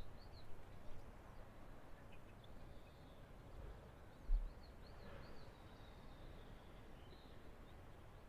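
Quiet outdoor ambience with a small bird chirping faintly in short repeated notes a few times, and a brief low thump about four seconds in.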